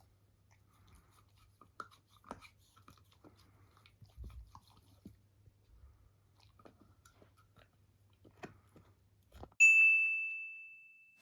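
Quiet chewing and crunching of food in small irregular clicks, most likely a cat eating. Near the end a single bright chime rings out loudly and fades away.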